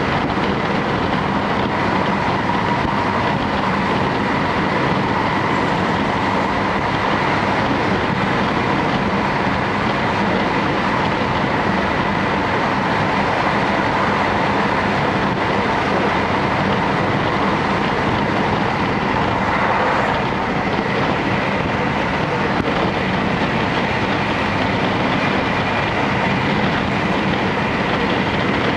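Running noise inside a JR Hokkaido Series 711 electric multiple unit travelling at speed: a steady rumble of wheels on rail with a faint steady hum over it.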